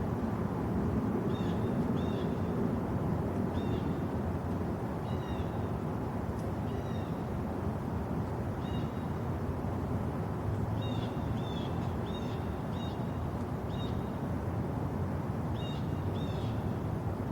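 Bird chirps: short, high notes in small groups of two or three, recurring every second or two, over a steady low rush of background noise.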